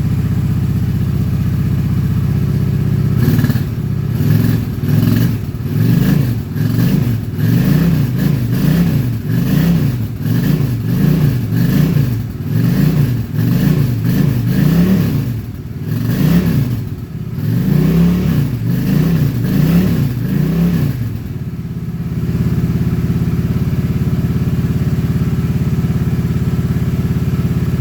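Honda Shadow 750 V-twin motorcycle engine, still cold, idling steadily, then blipped up and down about once a second for most of twenty seconds before settling back to a steady idle about 22 seconds in.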